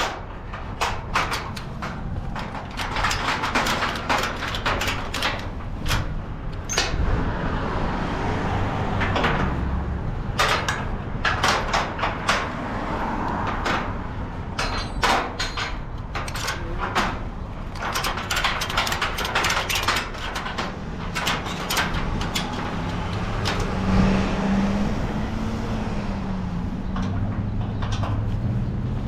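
A vehicle running with a steady low hum, overlaid with frequent irregular clicks, knocks and rattles.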